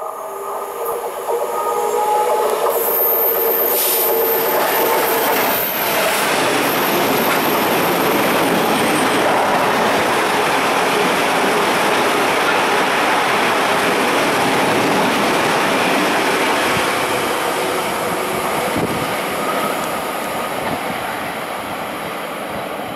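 Class 66 diesel locomotive passing with its two-stroke V12 engine running, followed by a long rake of aggregate hopper wagons rolling by with a steady rumble and clatter of wheels on rail. The engine note is strongest in the first few seconds, and the rolling noise fades near the end as the train draws away.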